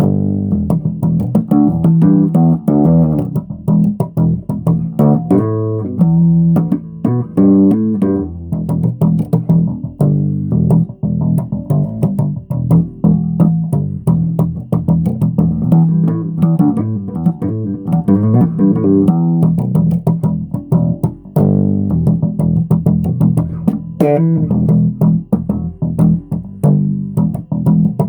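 Solo bass guitar played unaccompanied: a run of quick plucked notes and phrases in the low register, with sharp finger attacks.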